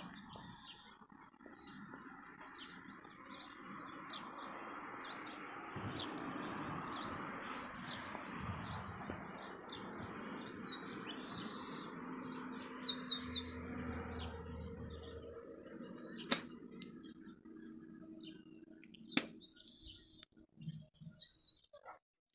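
Small birds chirping with many short, high calls, over a steady background noise that swells in the middle and fades near the end.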